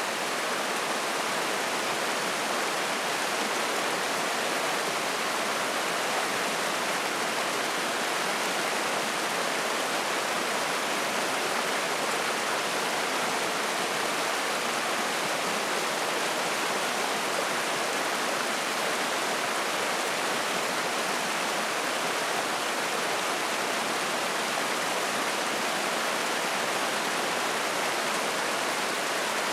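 Spring-fed mountain stream rushing and splashing over rocks, a steady, even water noise.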